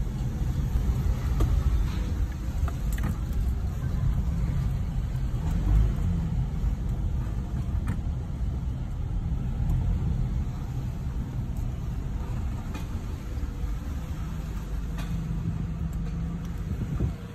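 2009 third-generation Toyota RAV4 running slowly down a ramp, a steady low rumble with faint irregular clicks. The clicks are the abnormal 'kia kia' noise the owner hears going downhill and turning.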